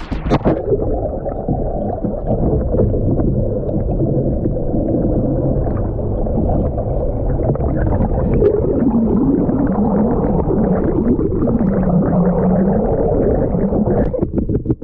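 Muffled rushing and gurgling river water heard with the microphone under water, as a fishing kayak tips over and is swamped. A sharp clatter comes at the very start, then a steady, dull churning with wavering low tones.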